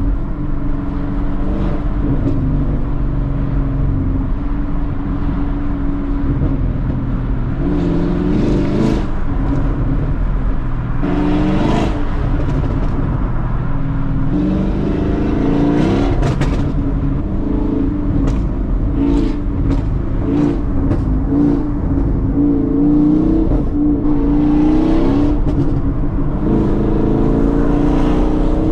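A small car's engine and exhaust under hard driving. The engine note climbs and drops several times as it revs through the gears, with exhaust pops and a burble.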